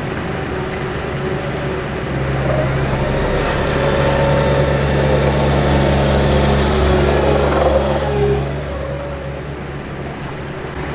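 A heavy engine running close by, getting louder about two seconds in and falling away after about eight seconds as it moves past.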